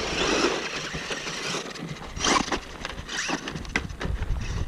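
Brushless Traxxas Rustler RC truck driving on rough dirt: tyre and gravel noise, with the motor's whine rising and falling briefly about three seconds in.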